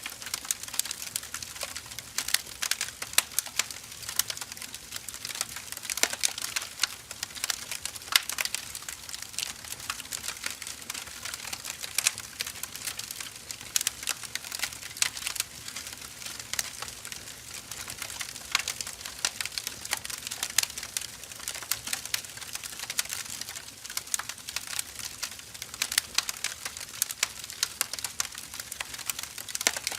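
Firewood burning, crackling and popping constantly with many small sharp snaps.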